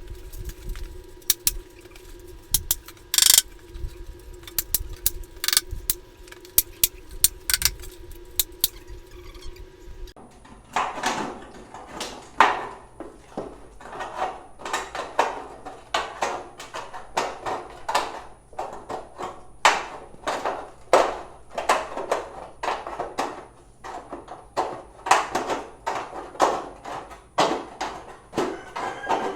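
Irregular knocks, taps and clatter of hand building work. About ten seconds in the sound changes to more frequent, sharper knocks over a faint steady high whine.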